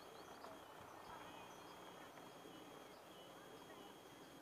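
Faint outdoor ambience with scattered short bird chirps and a steady faint high-pitched tone.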